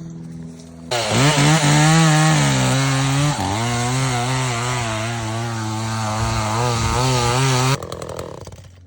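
Chainsaw running at high revs, its pitch wavering up and down for about seven seconds before it stops abruptly.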